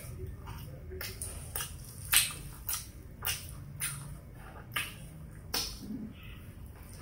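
Close-up chewing of fried chicken: a run of sharp mouth clicks and crunches, roughly every half second, the loudest about two seconds in.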